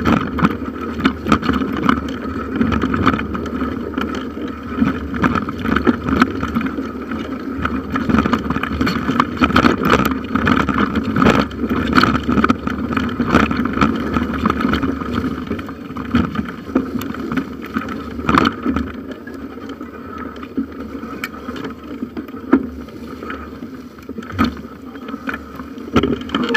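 Bicycle ridden over a bumpy forest trail, heard through a handlebar-mounted camera: a continuous rumble and rattle of tyres and frame, with many sharp knocks from bumps, easing a little near the end.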